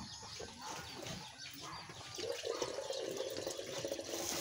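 Wet, crunchy chewing of raw jicama close to the microphone, with many small clicks. From about halfway through, a chicken calls.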